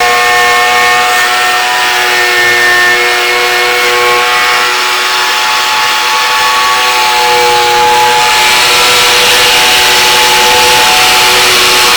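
Handheld power tool running steadily under load as it cuts into a VAZ 2110's steel oil pan, with a steady whine and a grinding hiss that grows stronger from about eight seconds in.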